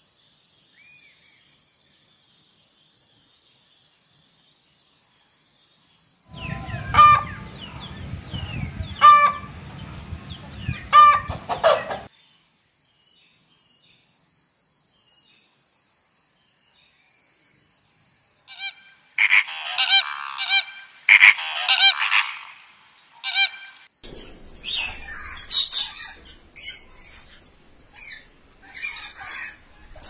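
Animal calls over a steady high hiss: four loud honking calls about two seconds apart starting about six seconds in, then, after a pause, a run of shorter bird calls that thins out towards the end.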